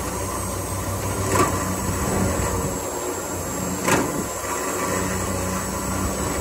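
Land Rover Defender engine running steadily at idle while the vehicle is moved, with two sharp knocks, about a second and a half and four seconds in.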